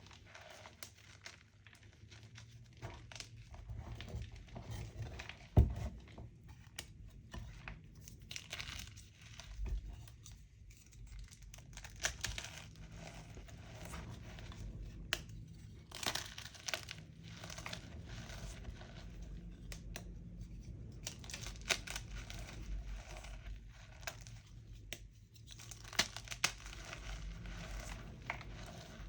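Blocks of homemade gym chalk being crushed and crumbled, giving a continuous irregular crackling and crunching of powdery chalk breaking apart. One sharp crack comes about five and a half seconds in.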